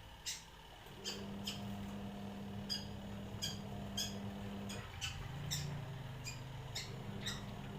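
Long-tailed shrike giving a string of short, sharp, high chirps, about a dozen, unevenly spaced at one to two a second.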